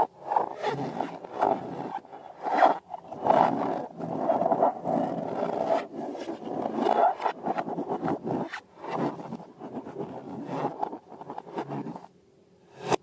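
Irregular raspy scraping and rubbing of balloons and slime being handled, in uneven surges. It stops about a second before the end, then a single sharp snap.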